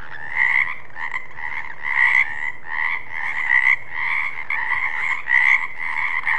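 Frogs croaking, one call after another at about two a second, over a steady chorus.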